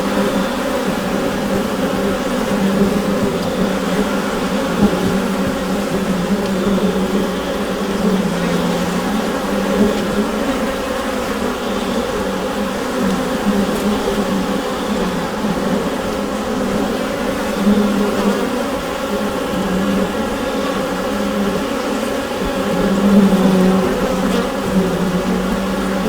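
Honeybee colony buzzing inside the hive: a dense, steady hum of many bees, centred on a low drone with overtones above it, swelling and easing slightly from moment to moment.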